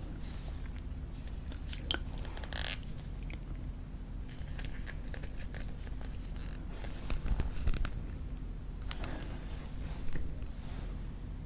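Close-miked gum chewing: soft bubblegum worked in the mouth with irregular wet smacks and clicks, louder for a moment about two thirds of the way through.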